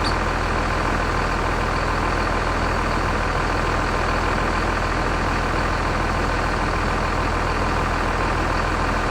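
Vehicle engine running steadily, a constant low hum under even noise.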